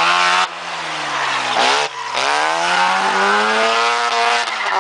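Carbureted 12A rotary engine of a 1984 Mazda RX-7, running through an open header and revving up and down hard as the car is thrown through an autocross course. The sound breaks off abruptly about half a second in and again near two seconds, then picks up with a long rise and fall in pitch.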